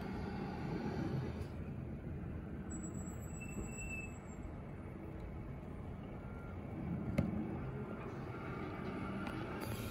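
Steady low vehicle noise, with one sharp knock about seven seconds in.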